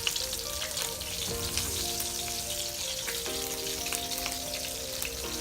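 Hot oil sizzling and crackling around fried talakitok (trevally) in the pan, with the flame just turned off. Soft background music plays underneath.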